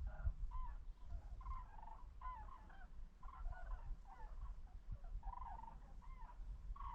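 A flock of migrating birds flying in V formation, calling continuously overhead: many overlapping, wavering calls, over a low rumble.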